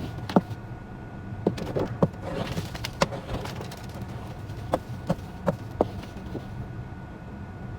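Irregular sharp clicks and knocks, about a dozen, over a steady low hum.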